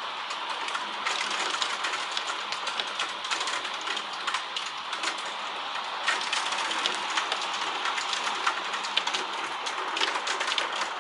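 Heavy rain with hail: a steady hiss of downpour with a dense, irregular patter of sharp clicks as hailstones strike hard surfaces, the clicking thickening about a second in and again later.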